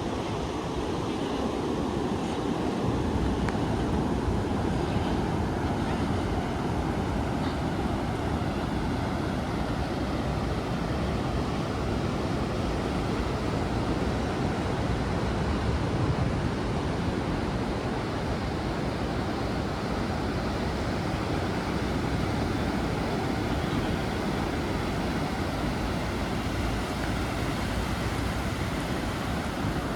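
Ocean surf washing steadily onto a sandy beach, a continuous rush of breaking waves, with wind buffeting the microphone.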